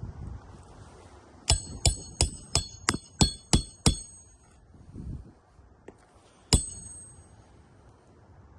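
Hammer blows on metal with a ringing clink: eight quick strikes, about three a second, then one more strike a couple of seconds later.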